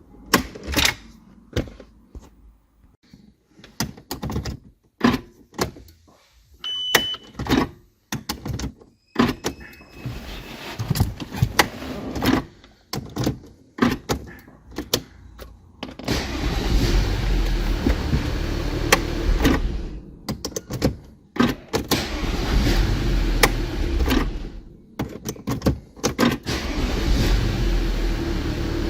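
Audi A6 C6 car: a string of sharp clicks and knocks and a brief electronic beep, then from about halfway a steady low running rumble that breaks off twice.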